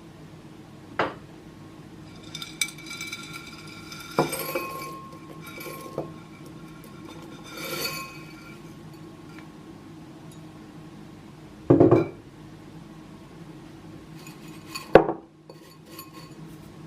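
Glass jars and containers being handled and set down on a hard surface: bright clinks and several knocks, the loudest a double knock about twelve seconds in and a sharp one about three seconds later.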